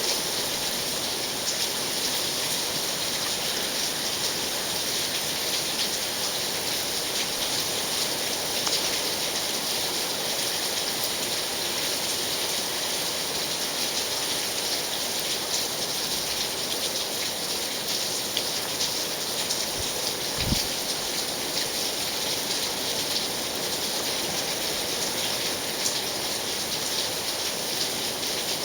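Steady rain falling, an even dense hiss with fine patter of drops throughout. A single brief low thump comes about two-thirds of the way through.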